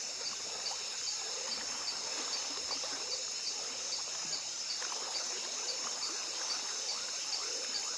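Night-time rainforest insect chorus: steady high-pitched buzzing, with one pulsed call repeating about two to three times a second, over soft trickling water.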